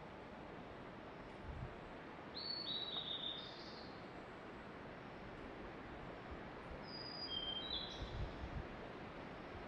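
Songbird singing two short phrases of clear, flat whistled notes stepping down in pitch, about two seconds in and again about seven seconds in, over a steady background hiss; the uploader takes the singer for a blue-and-white flycatcher (ōruri).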